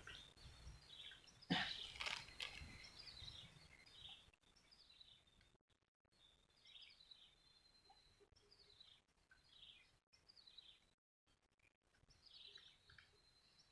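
Faint, repeated short chirping bird calls, each a quick falling note, with a couple of knocks or handling noises about a second and a half in.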